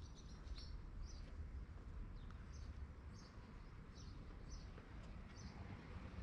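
A small bird chirping: short, high calls repeated roughly every half second, over a steady low rumble.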